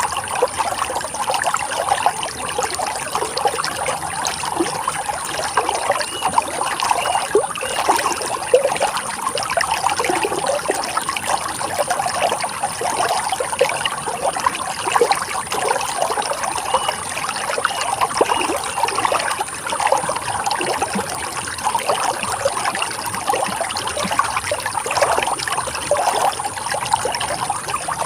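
Running water trickling and splashing steadily over rocks, with bubbling and gurgling.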